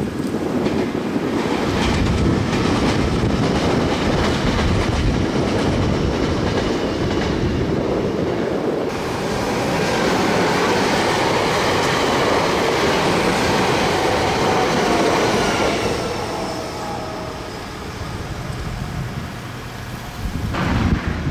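Nagoya Railroad (Meitetsu) electric train running by: a loud, steady rolling noise with a faint whine gliding in pitch in the second half. It dies down about three-quarters of the way through.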